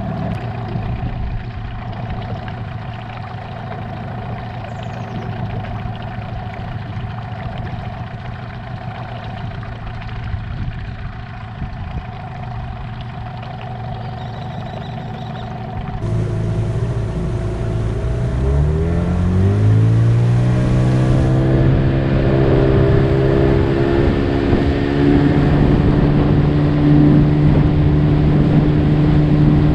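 Outboard motor of a small boat running steadily, then, past the middle, speeding up: its pitch rises over a few seconds and settles at a higher, louder steady speed.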